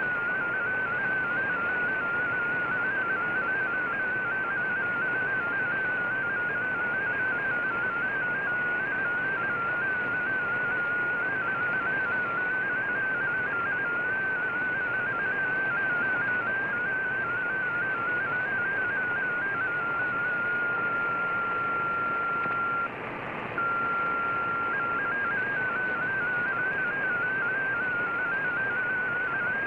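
MFSK digital text signal from a shortwave radiogram broadcast: a warbling data tone that jumps quickly between nearby pitches over steady receiver hiss. About 20 s in it settles to one steady tone, drops out briefly, then returns to warbling data.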